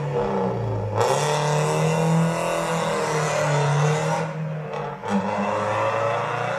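Car engine revving repeatedly, its pitch climbing and dropping several times.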